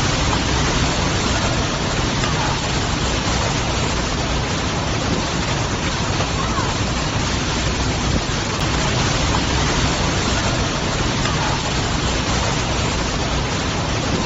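Strong wind blowing hard: a steady, loud rushing noise that does not let up.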